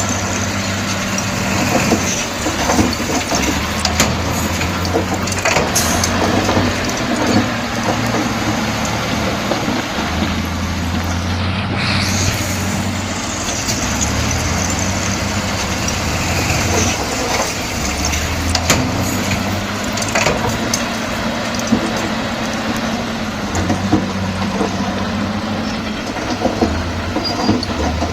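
Komatsu D68E bulldozer's diesel engine running under working load, its pitch rising and falling every few seconds as the load changes. Under it is a steady broad clatter of machinery with scattered knocks.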